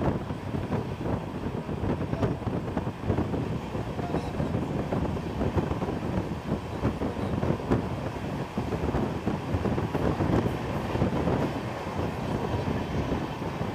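Passenger train coaches running along the track, heard at an open coach door: a steady rumble of wheels on rail with frequent clicks and knocks throughout.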